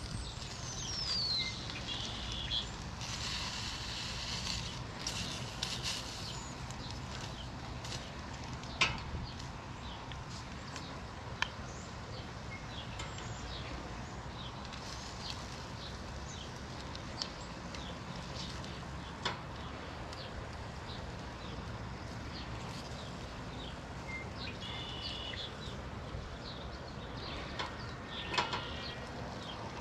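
Outdoor ambience: birds chirping now and then over a steady low rumble, with a few sharp clicks scattered through.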